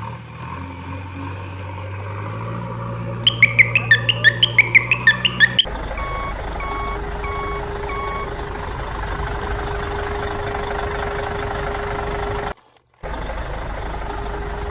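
Cartoon vehicle sound effects: a low engine hum that steps up in pitch, a quick run of about a dozen loud chirps, then a steady heavy-vehicle engine noise with a reversing beeper sounding four times. The engine noise breaks off briefly near the end and comes back.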